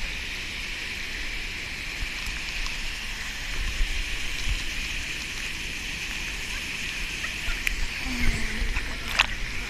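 Steady rush of falling water from a waterfall, with low rumble underneath. A brief vocal sound about eight seconds in and a sharp splash near the end.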